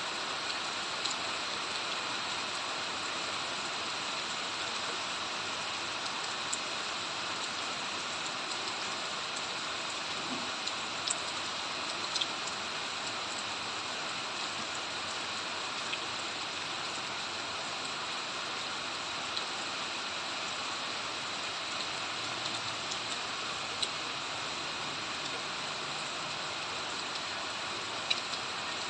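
Steady rain falling, an even hiss with scattered sharp drops striking close by.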